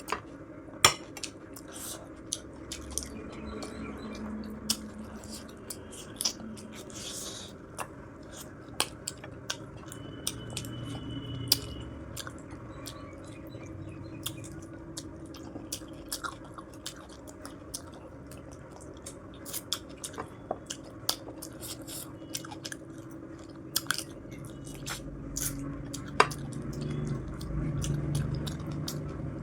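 Close-miked chewing and biting of food, with frequent short clinks of tableware against a plate.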